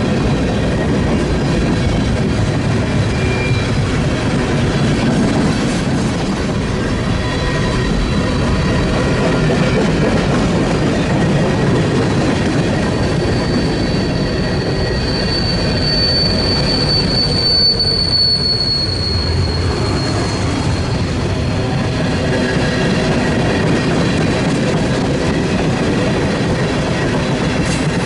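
Train cars rolling past with steady wheel-on-rail rumble, and a high-pitched wheel squeal rising and fading about halfway through.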